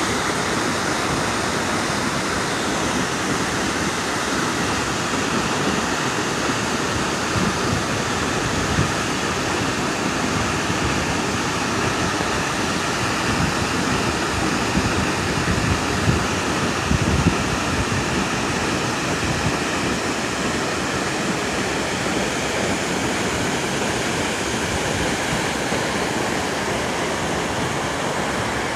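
Waterfall's falling water: a loud, steady rush, with a few brief low bumps partway through.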